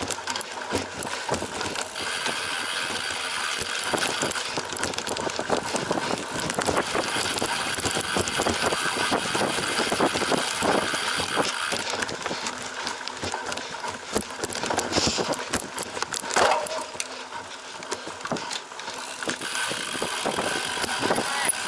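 Cyclocross bike ridden hard over bumpy ground: a dense, irregular run of rattles and knocks over a steady rush of tyre and wind noise.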